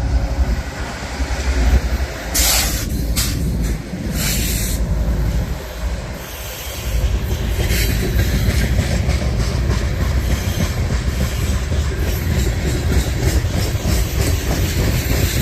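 Freight train passing close by: a heavy rumble from the cars, with a couple of brief high-pitched bursts about two and four seconds in, and a rapid clatter of wheels over the rail joints from about halfway through.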